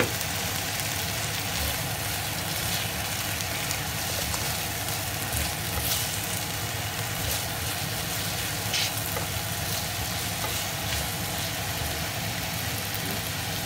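Giant shrimps frying in hot oil with minced garlic and soy sauce in a nonstick wok: a steady sizzle, with a few light scrapes and taps of a silicone spatula as they are turned.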